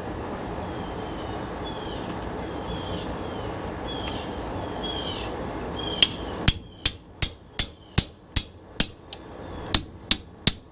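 Hammer blows on metal ceiling-fan parts. About six seconds in, a fast run of sharp strikes starts, roughly three a second, each with a bright metallic ring. Before that there is a steady rushing noise.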